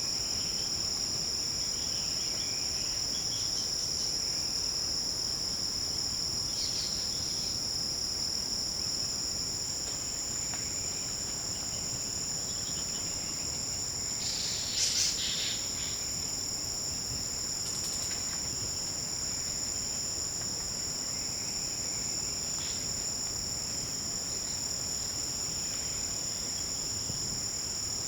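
Steady chorus of forest insects, several trilling at fixed high pitches without a break. Brief calls break in now and then over it, the loudest a short burst about halfway through.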